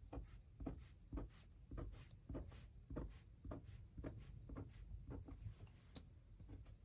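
Faint pen strokes scratching on paper, short irregular scrapes a few times a second, as a border is drawn around a journal page.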